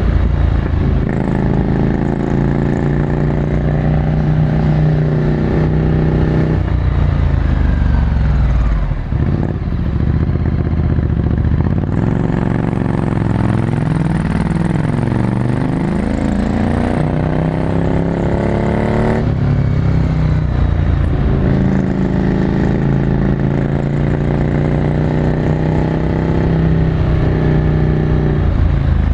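Ducati Scrambler Desert Sled's air-cooled L-twin engine through a full Termignoni exhaust, heard onboard while riding. It pulls steadily, the revs fall off about seven seconds in, then rise and fall several times through the middle before it settles back into a steady pull.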